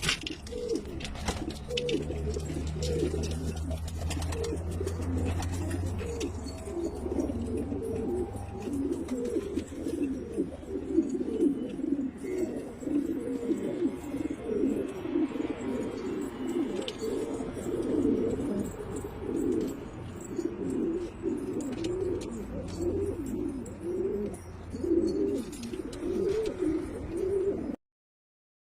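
A flock of domestic pigeons cooing continuously, many low coos overlapping. The sound cuts off suddenly near the end.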